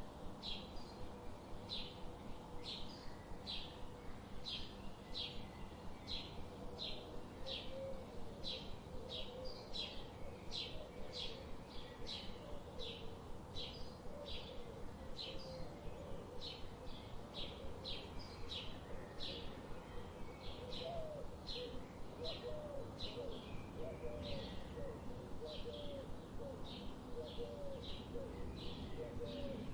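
Birds calling: one bird repeats a short high note about twice a second throughout, and lower, wavering calls join in after about eight seconds.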